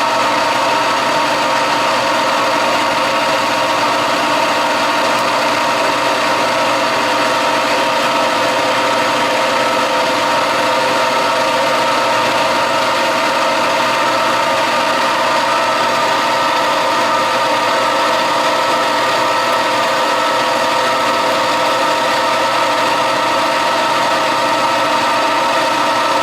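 Metal-turning lathe running steadily under power, a constant hum of motor and gearing made of several steady tones, with no change in speed.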